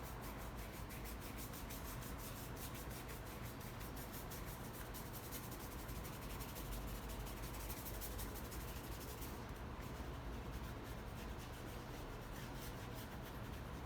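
Paintbrush loaded with thinned black paint brushed back and forth over the painting surface in quick, close strokes, a soft rubbing that eases off about two-thirds through and picks up again near the end.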